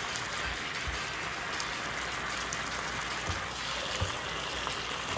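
Sliced chicken breast sizzling in its juices in an electric skillet, a steady hiss, with a few soft knocks as a silicone spatula stirs it.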